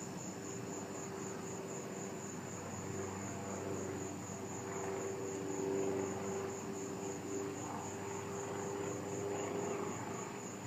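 A distant propeller airplane droning steadily, swelling slightly around the middle, over the high, evenly pulsing trill of night insects.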